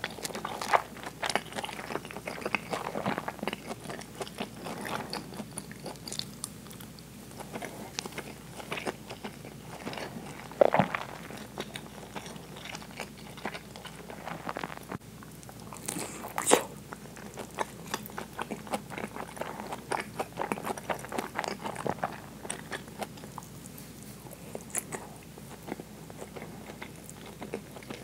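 Close-miked chewing of a mouthful of soft braised food: wet smacking and squelching mouth sounds, with a few louder clicks, one just under halfway through and one a little later.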